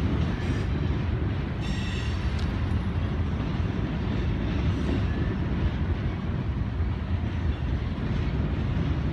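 Freight train cars rolling past with a steady rumble of wheels on rail. A brief high squeal comes about two seconds in.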